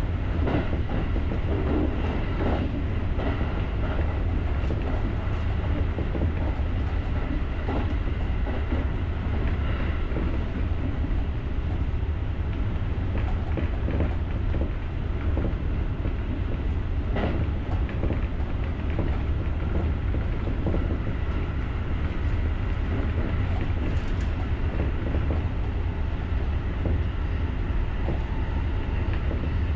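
JR rapid electric commuter train running, heard from inside the driver's cab: a steady low rumble with scattered clicks of the wheels over the rails.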